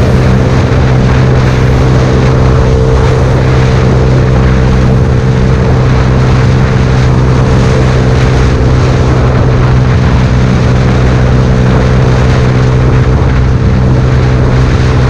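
Yamaha YZF-R125's single-cylinder four-stroke engine through an aftermarket Devil exhaust, held at a steady engine speed, its note unchanging throughout.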